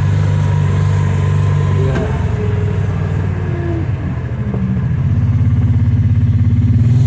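Kawasaki Teryx side-by-side's engine running steadily, easing off about two seconds in, then picking up and growing louder as it accelerates near the end.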